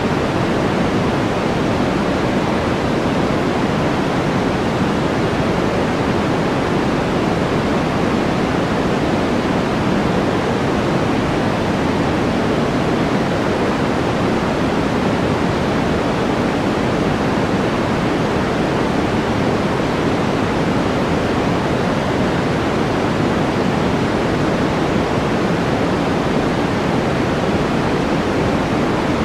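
Steady white-noise track for focus, an even hiss with most of its weight in the lower and middle range, unchanging throughout.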